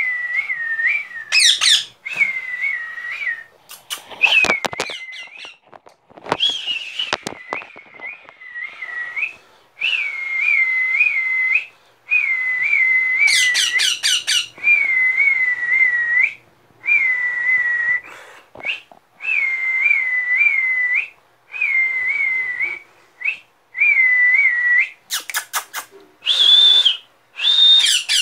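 Short bursts of warbling whistled notes, over and over, each a clear trill around one pitch lasting a second or two, whistled to a baby parrot. A few sharp high chirps from the parrot come in around the middle and again near the end.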